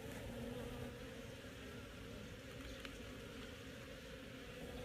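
Honeybees buzzing around an open hive, a steady, fairly faint hum of many wings.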